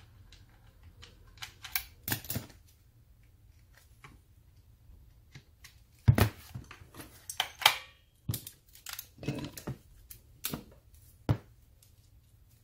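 Irregular clicks and knocks of small grinder parts being handled and pushed into place while new carbon brushes go into a Bosch GWS 20-230 angle grinder, the sharpest knocks a little after halfway.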